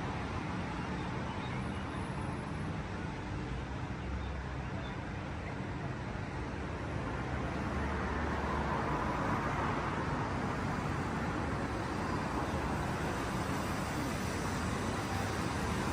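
Steady background noise with a faint low hum and no distinct events, growing slightly louder in the second half.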